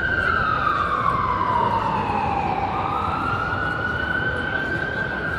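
Emergency vehicle siren wailing: a slow tone that falls over about two and a half seconds, climbs back up, holds, and starts falling again near the end, over a steady low background noise.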